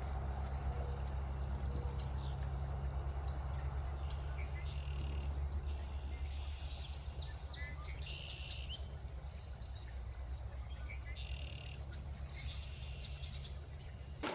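Short trilled and chirping wildlife calls, heard several times, each about a second long, over a steady low hum.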